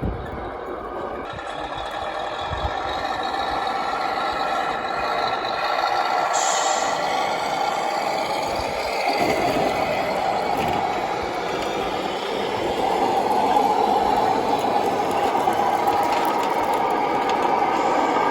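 Radio-controlled model truck running: a steady mechanical sound that grows gradually louder.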